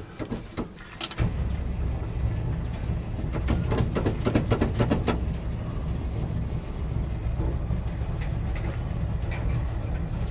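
A few clicks and knocks, then a starter motor cranking an International Harvester 304 V8 for about nine seconds, turning over steadily without firing; it cuts off near the end. The engine doesn't catch after sitting a year, which the owner puts down to a carburetor that is probably empty of fuel.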